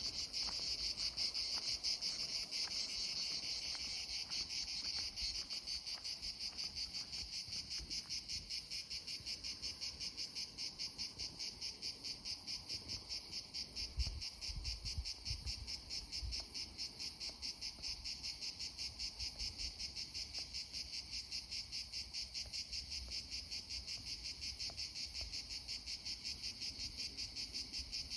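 Insects chirring in a steady high-pitched chorus that pulses about two or three times a second, with a brief low thump about halfway through.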